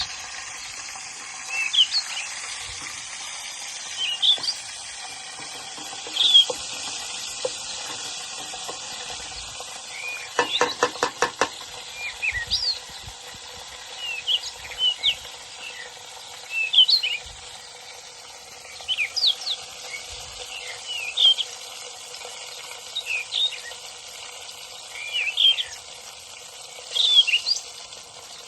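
Wild birds chirping in short calls every second or two over a steady hiss. About ten seconds in comes a quick run of around a dozen rapid taps.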